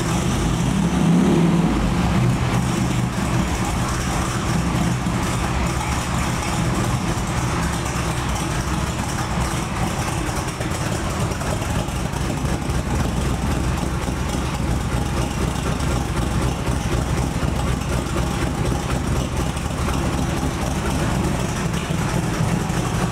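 427 Cobra's big-block V8 idling steadily after a cold start, with a brief swell in the engine note about a second in.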